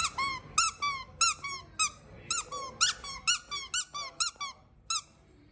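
Squeaky baby toy squeezed again and again, giving a quick run of short squeaks, about four a second and some in quick pairs, each dropping in pitch, stopping a little before five seconds in.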